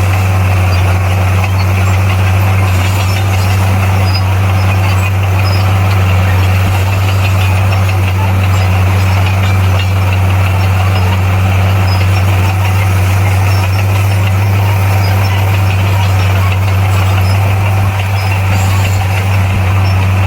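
Bulldozer's diesel engine running steadily with an even, unchanging low hum.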